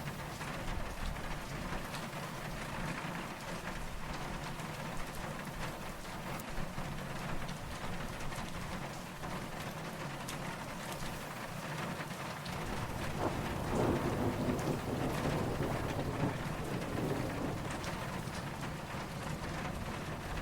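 Steady rain falling, with many small drops ticking on a surface. A low rumble of distant thunder swells about two-thirds of the way through and fades over several seconds.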